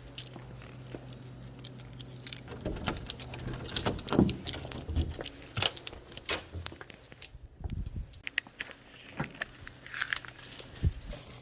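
Irregular clicks, light rattles and rustling of small objects being handled, loudest about four seconds in and again near the end, over a steady low hum.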